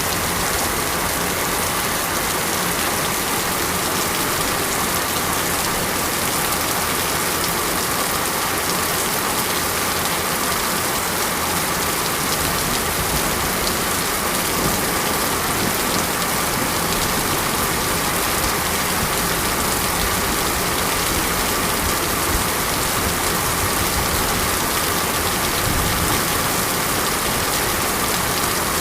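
Steady heavy rain falling and pattering on surfaces, an even hiss without let-up.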